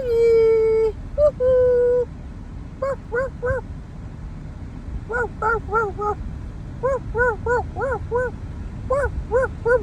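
A dog whining and yipping: two drawn-out whines in the first two seconds, then short high yips in quick runs of three to five.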